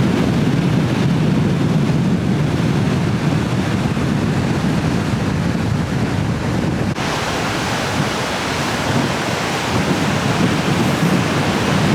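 Strong wind buffeting the microphone: a loud, steady rushing rumble that changes slightly in character about seven seconds in.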